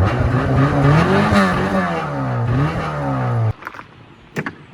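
Dodge Neon's four-cylinder engine being revved up and down repeatedly with a smoke bomb burning in its intake. The engine note cuts off suddenly about three and a half seconds in, leaving a few faint clicks.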